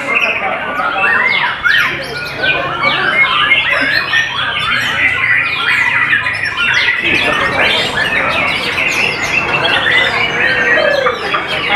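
White-rumped shama singing a fast, unbroken string of varied whistled and chattering notes, many of them quick sweeps up or down in pitch.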